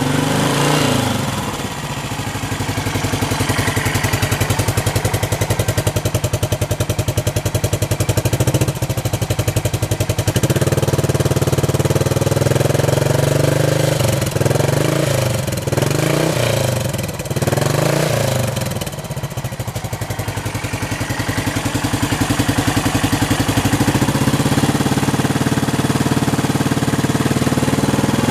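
Yamaha SR400's single-cylinder four-stroke engine idling, revved briefly at the start and blipped several times in quick succession about halfway through.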